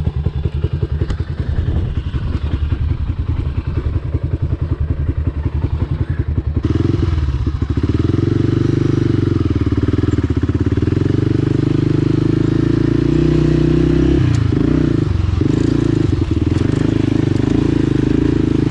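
Dirt bike engine idling with an uneven pulsing beat. About a third of the way in it opens up and runs hard under throttle, with a brief drop in revs a little past the middle before it picks up again.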